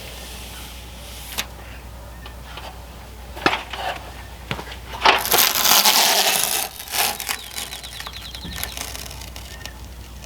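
Adhesive sheathing seam tape being pulled and peeled off its roll: a loud ripping hiss lasting over a second about five seconds in, with a few sharp knocks and clicks before it and a fainter crackling peel after.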